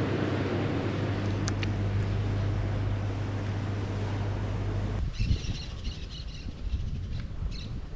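A steady low engine or machine hum with a constant low tone, cut off abruptly about five seconds in. Then small birds chirping over wind rumble.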